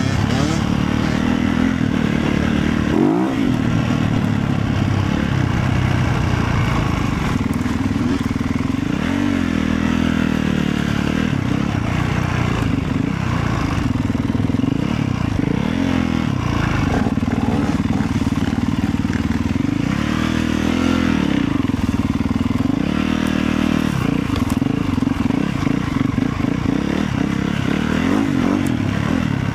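Motorcycle engine running under way, its pitch rising and falling again and again as the throttle opens and closes.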